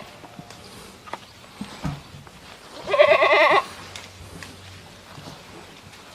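A goat bleating once, a quavering call of under a second about three seconds in, with a few faint knocks before it.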